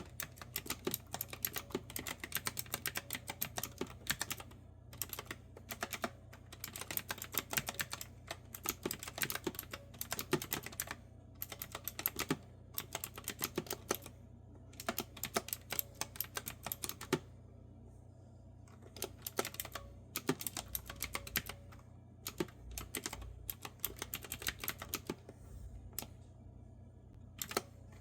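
Typing on a clicky retro-style keyboard with round keys: quick runs of keystrokes broken by short pauses, thinning to a few scattered clicks near the end. A faint steady low hum lies underneath.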